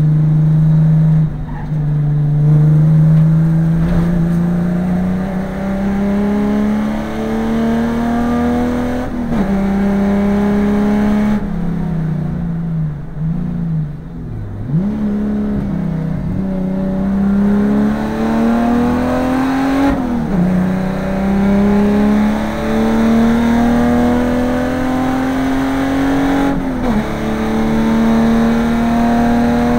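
Holden VN Commodore race car's V6 engine heard from inside the cabin at racing speed. It climbs steadily in pitch under full acceleration, broken by quick dips at the gear changes. Around the middle the revs fall and jump up and down as the car brakes and changes down for a corner.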